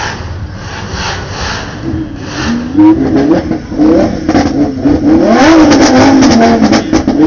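A sports car engine being revved in a series of throttle blips, its pitch rising and falling over and over from about three seconds in. The revving is loudest near the end, with sharp pops and crackles.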